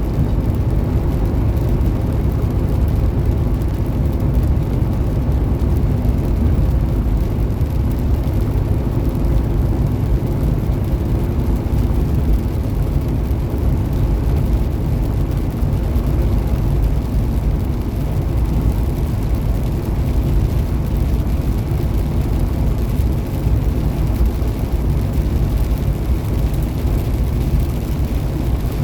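Steady low drone inside a Peterbilt semi-truck cab on the highway: the diesel engine running under load along with tyre and road noise, unchanging throughout.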